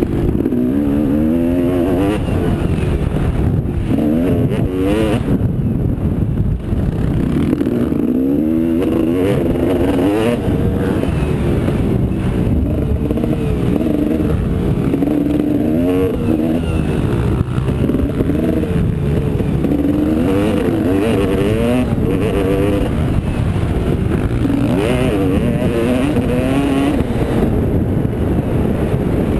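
Motocross motorcycle engine running hard, its pitch climbing and dropping again and again as the throttle is opened and closed, over a steady low rumble.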